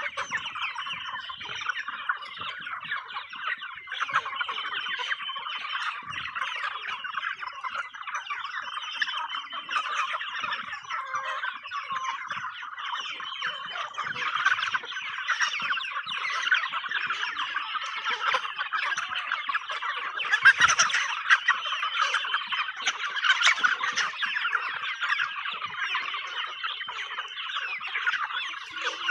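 A flock of chickens, Brahmas among them, clucking and chattering without a break, many birds calling over one another as they eat treats.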